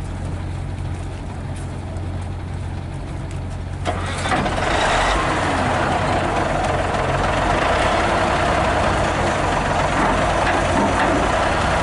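Hino 500 FM320TI truck heard from inside the cab: a steady low engine hum, then about four seconds in a sudden, louder rushing noise joins it and keeps on.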